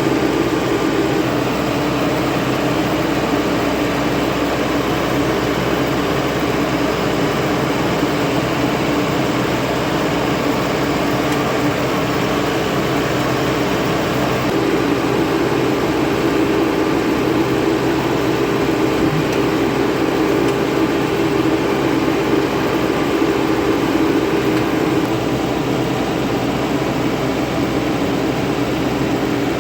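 Diesel engine of a farm machine running steadily at constant speed while working, with a continuous drone and no change in pitch.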